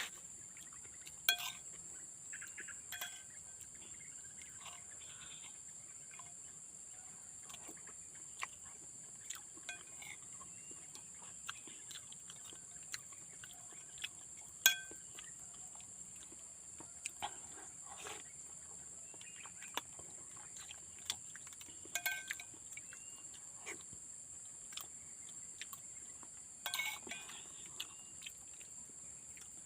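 Steady, high-pitched drone of outdoor insects, with scattered clicks and clinks of a spoon on a plate as someone eats, and a few short bird chirps.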